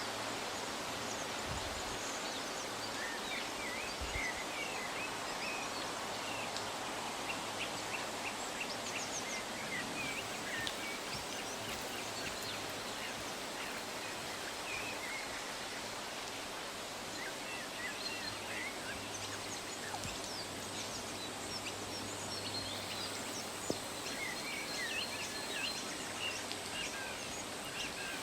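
Birds chirping and calling in short, high notes scattered throughout, over a steady outdoor background noise.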